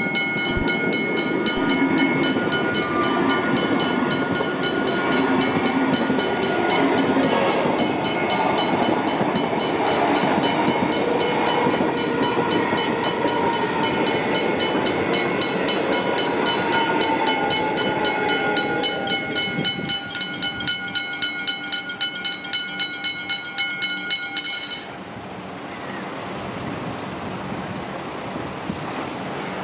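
Electric suburban train passing through a level crossing with a rumbling rush of wheels on rail, while the crossing's warning bells ring rapidly and steadily. The bells stop abruptly about 25 seconds in, leaving the softer rush of the train moving away.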